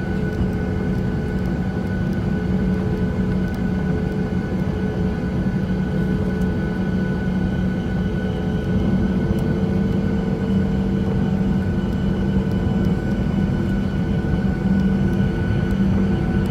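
Jet airliner taking off, its engines running with a steady deep rumble and several steady whining tones, growing slightly louder about halfway through and again near the end.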